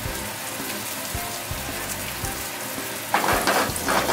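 Monkfish liver steaks shallow-frying in plenty of hot oil in a frying pan: a steady sizzle and crackle as they sear to a crisp, browned crust. A voice starts near the end.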